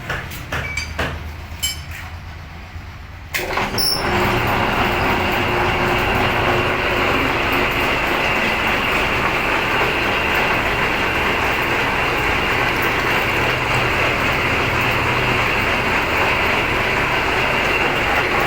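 A few sharp clicks, then a metal lathe starts running about three seconds in with a sudden, loud, steady mechanical noise.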